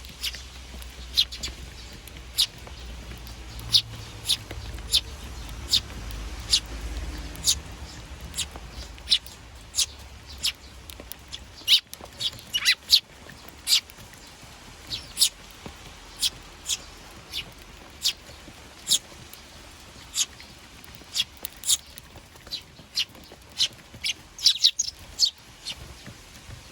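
Eurasian tree sparrows chirping: short, sharp chirps one after another, about one or two a second, with a low rumble underneath in the first third.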